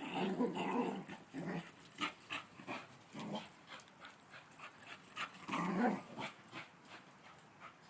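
Two dogs making short vocal sounds as they play chase, in bursts near the start, around three seconds in, and again near six seconds.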